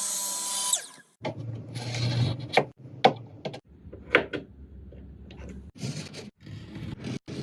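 A power tool's whine winding down and stopping about a second in, followed by wooden parts being rubbed and knocked together during fitting, with several sharp knocks.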